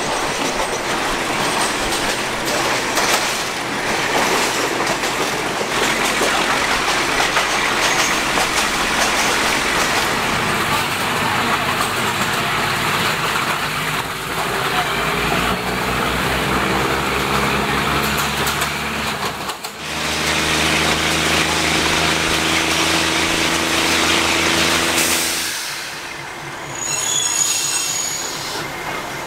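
Inside a non-air-conditioned diesel railcar: the wheels run over the rails with wind and rush through the open windows, then a steady hum with several tones takes over as the train slows, and the noise drops away about three-quarters of the way through as it comes to a stop.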